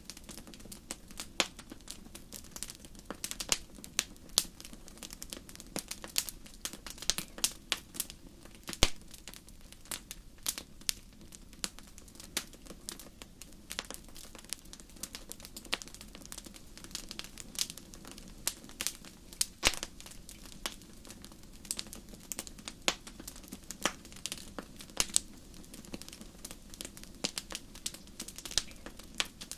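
Wood fire in a fireplace crackling: irregular sharp pops and snaps over a soft, steady low rumble of the flames.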